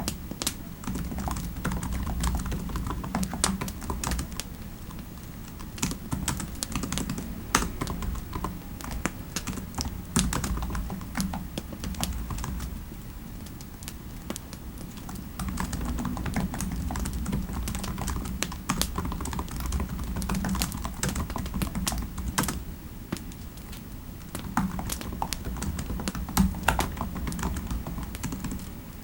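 Typing on a computer keyboard: irregular runs of keystroke clicks over a steady low rumble, easing off briefly about halfway through.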